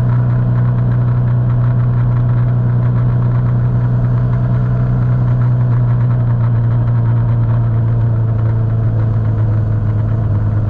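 Motorcycle engine running at a steady speed, its note dropping slightly in pitch near the end.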